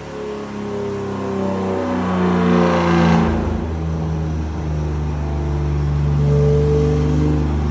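Porsche 911 GT3's flat-six engine running loud, its pitch stepping down over the first three seconds and peaking in loudness about three seconds in, then holding a steady note that slowly climbs.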